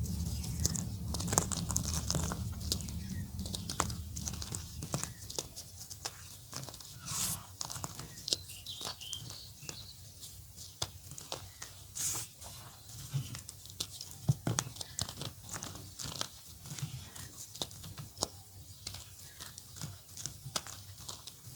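Blocks of orange gym chalk being crumbled close to the microphone: dense, dry crackling and crunching, fullest in the first few seconds, then thinning to scattered small crackles and snaps.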